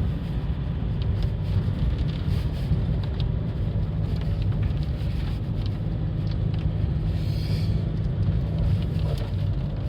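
Car engine and tyre noise heard from inside the cabin as the car climbs a steep, rough mountain road: a steady low rumble with a few faint ticks.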